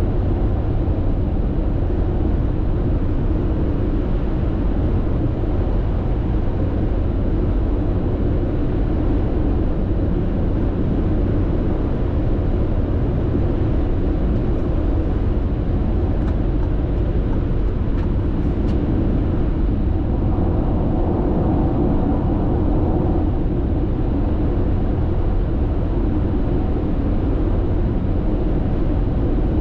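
Steady road noise heard from inside a car's cabin cruising at constant speed on an expressway: tyre noise and a low engine hum, with a few faint ticks in the middle.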